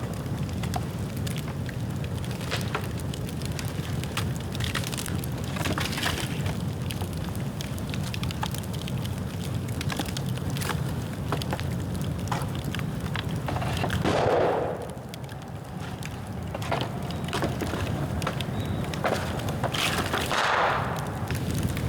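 Dry bamboo burning in an open bonfire, crackling with many sharp pops and snaps over a steady low rumble of fire. Two louder rushing surges come about two-thirds of the way in and again near the end.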